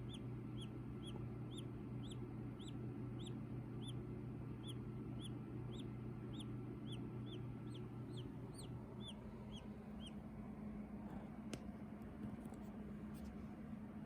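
Silkie chick peeping: a regular run of short, high, arched peeps, about two a second, that stops around ten seconds in, over a steady low hum. A couple of faint clicks come near the end.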